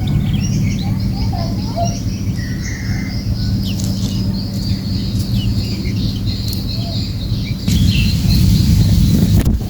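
Small birds chirping in many short, high calls, over a steady low rumble of wind-like noise that grows louder about eight seconds in.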